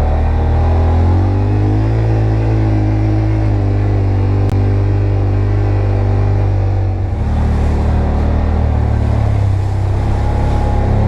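Off-road vehicle engine running under way on a trail, picking up speed about a second in, holding steady, easing off around seven seconds, then picking up again near the end.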